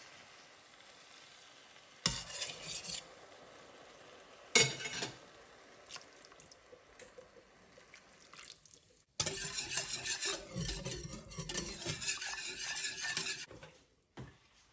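A utensil stirring and scraping food in a cooking pan, with a sharp knock against the pan about four and a half seconds in. A longer, louder spell of stirring comes in the second half.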